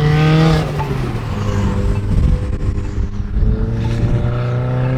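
Car engines accelerating as cars drive off, the pitch climbing and then breaking off about half a second in. A rough low rumble fills the middle, and another rising engine note comes in near the end.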